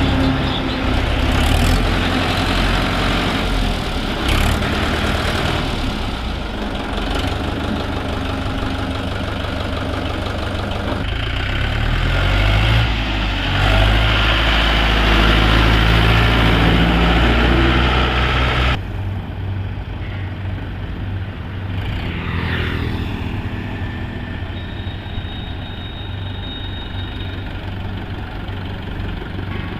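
Tractor engine running loudly, rising in pitch and getting louder from about 12 seconds in; about 19 seconds in the sound cuts abruptly to a quieter, duller engine sound.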